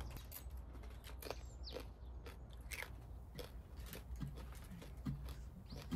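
Crunchy snack being bitten and chewed close to the microphone: a run of crisp crunches at an uneven pace.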